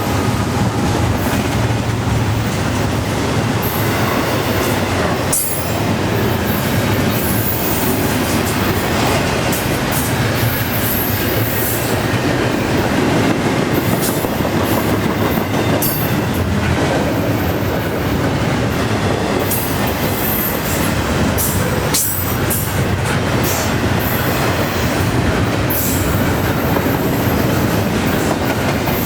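A long intermodal freight train's cars rolling past at about 34 mph. The wheels make a steady rumble and clatter over the rail joints, with brief high-pitched wheel squeals over and over.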